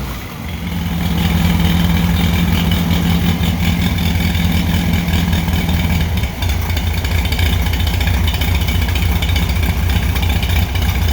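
Air-cooled VW 1600 single-port flat-four engine with a Holley 2110 carburettor idling steadily, only briefly warmed up and its idle not yet set. A steady hum over the engine stops about six seconds in, with a brief dip in the engine sound just after.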